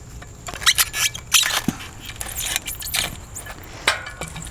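Irregular metallic clinks, knocks and scrapes as a large walnut log is levered and rolled over on a manual sawmill's bed.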